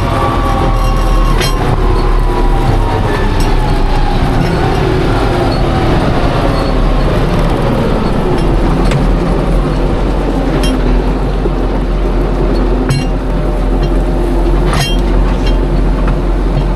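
Machinery running with a steady low rumble while a whine slowly falls in pitch over several seconds and then levels off, with a few sharp clicks.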